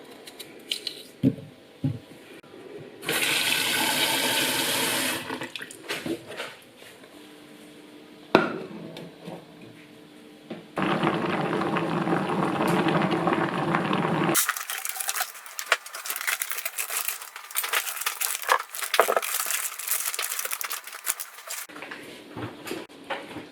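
Kitchen tap running into a sink in several bursts, a couple of seconds each, with a longer stretch near the end, between small clicks and knocks.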